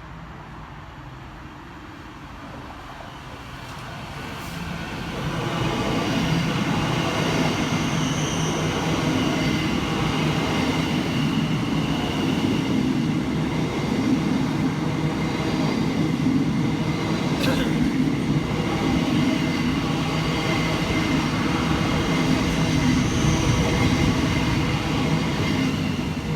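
A train running through the station non-stop. It builds from about four seconds in to a loud, steady rumble of wheels on rails with a whine over it, and begins to fall away right at the end.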